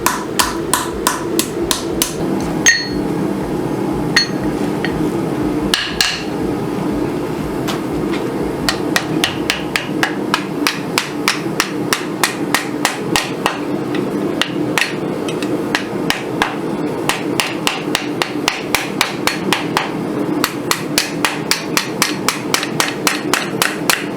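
Hand hammer striking hot steel on an anvil, shaping a sword's clamshell guard: a fast, steady run of blows at about three to four a second, with a few louder ringing strikes in the first six seconds, over a steady drone.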